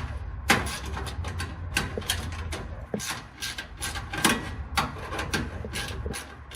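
Metal parts of a dryer's heating element assembly scraping and clicking irregularly as they are worked into place, over a low steady hum.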